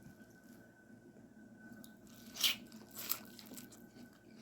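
Crunching and biting while eating a seafood boil close to the microphone, with two louder crunches about two and a half and three seconds in.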